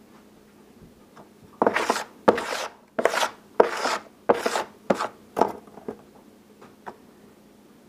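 Seven rasping scrapes on packed casting sand in a mold flask, about one and a half strokes a second, starting about a second and a half in and fading out near the end.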